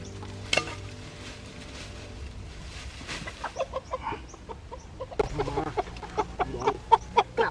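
Chicken clucking: a rapid run of short, repeated calls that starts a few seconds in and gets louder toward the end. A faint background tune fades out early on, and there is a single sharp click about half a second in.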